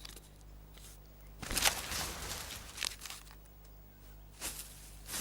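Korean pine cones dropping and landing on the forest floor: a few sudden thuds and rustles, the loudest about a second and a half in, with smaller ones later.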